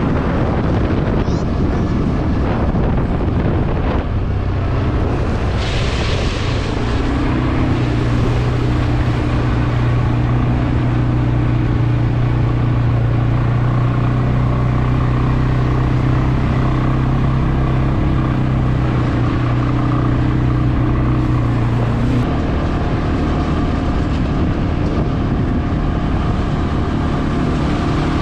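CFmoto CForce 520 ATV engine running steadily under way, with wind on the microphone. There is a brief hiss about six seconds in, and the engine note shifts to a higher pitch about three quarters of the way through.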